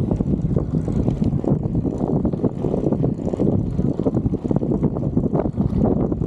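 Strong wind buffeting the microphone of a moving bicycle rider's camera: a loud, gusty low rumble that never lets up.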